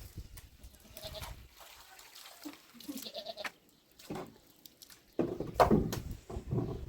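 Livestock bleating: several short bleats, then a louder, longer one about five seconds in.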